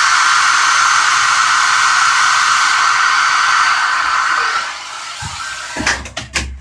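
Hand-held hair dryer blowing steadily, a loud even rush of air with a strong whine in it, switched off about three-quarters of the way through. A few sharp clicks follow near the end.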